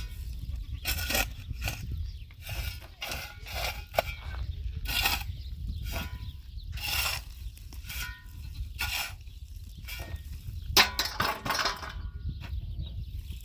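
Irregular rasping strokes of a hand tool working a hard material, about one a second, over a steady low rumble.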